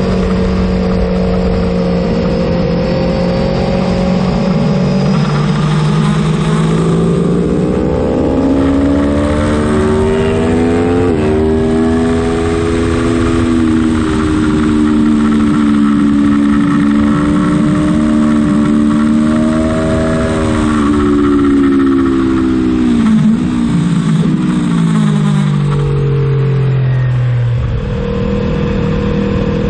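Aprilia Tuono motorcycle engine under hard riding, heard on board over wind rush: revs climb steadily and step down at a gear change about eleven seconds in, hold high, then fall in steps from about twenty seconds in as it slows through downshifts, picking up again near the end.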